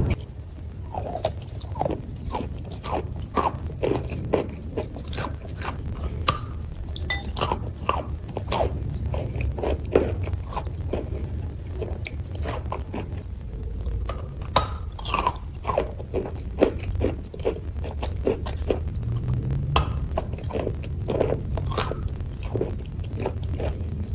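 A person biting and chewing a hard, crumbly white food close to the microphone, with many sharp crunches in quick, irregular succession over a low steady hum.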